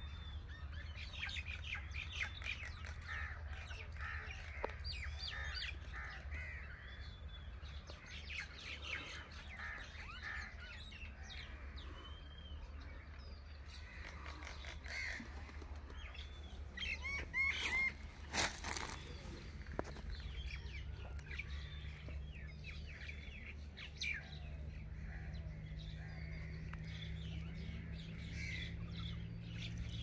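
Many birds chirping and calling in short, quick notes throughout, with a brief louder noise a little past halfway, over a steady low hum.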